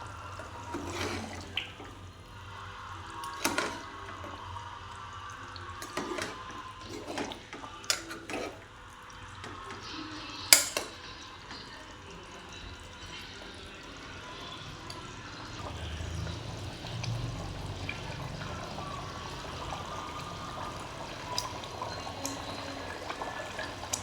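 Water running and splashing in a kitchen, with irregular knocks and clinks of utensils and a sharp clack about ten seconds in.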